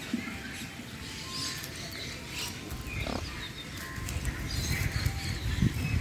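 Birds calling in short, scattered chirps over a steady background hiss, with a low rumble coming in about halfway through.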